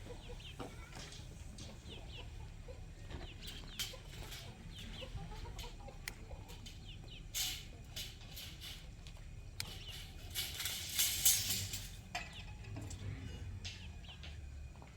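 Domestic chickens clucking and cheeping in short high calls, with a loud burst of rustling, like wings flapping, about ten seconds in.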